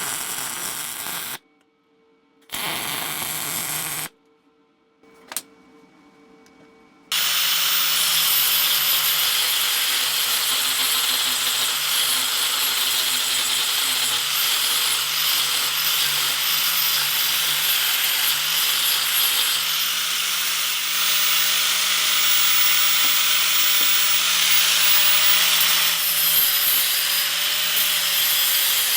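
Two short bursts of welding on the slots cut in the bent steel railroad spikes, then a power grinder running steadily from about seven seconds in, grinding the welds down.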